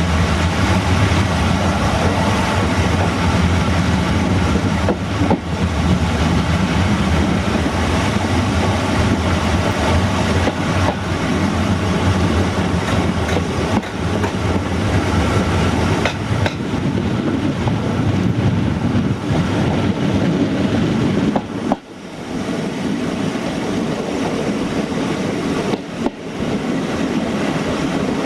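Heritage railway train running along the track, heard from its rear cab: a steady rumble of wheels on rails with occasional clicks. The rumble dips briefly twice in the last third.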